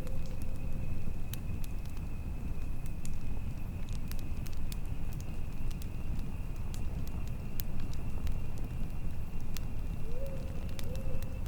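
Campfire crackling with frequent sharp pops over a steady low rumble of wind, with a thin steady high tone running underneath. Near the end a bird gives two short low calls.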